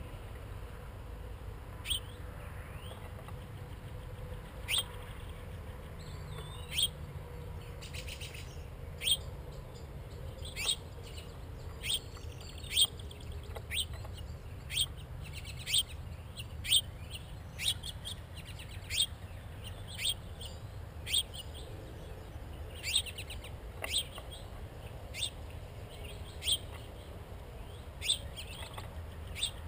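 A songbird calling a short, sharp chirp over and over, about once a second, each note dropping quickly in pitch, over a steady low rumble.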